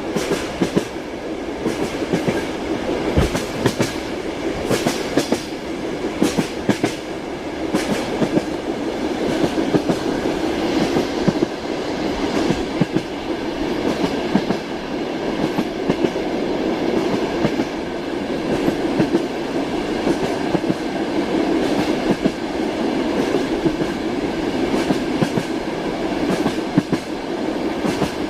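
Train wheels clacking over the rail joints, heard from inside a passenger car's compartment, over the steady rumble of the moving carriage.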